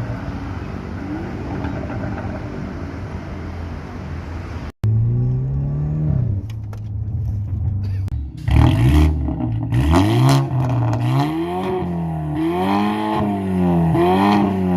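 BMW F30 sedan's engine through an aftermarket valved stainless exhaust, running at a steady note at first. After a sudden cut about five seconds in, it is revved again and again, the pitch rising and falling with each rev.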